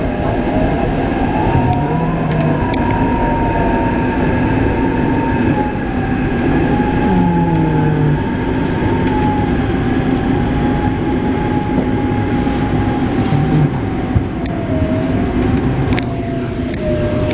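Taipei Metro C381 train with software-modified propulsion running on the line, a steady rumble of wheels and rail with a thin motor whine that slowly wavers up and down in pitch.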